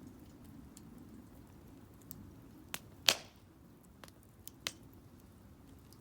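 Wood fire burning in a Solo Stove Campfire fire pit, crackling with a few sharp pops. The loudest pop, about three seconds in, trails off in a brief hiss.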